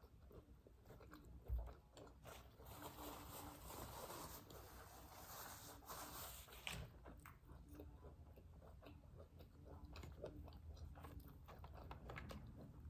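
Faint eating sounds: biting and chewing food, with small crunches and mouth clicks. There is a soft bump about a second and a half in.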